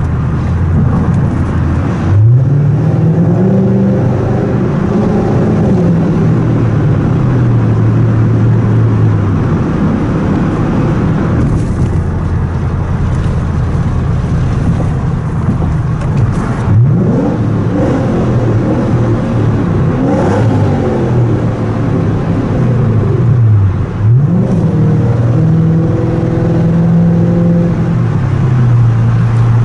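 Toyota Crown Majesta's 4.3-litre V8 through a full straight-piped exhaust with a Zeegspeed Margay rear muffler, loud and echoing in a tunnel. The engine revs up sharply three times, about 2, 17 and 24 seconds in, then its note falls away as the car cruises between.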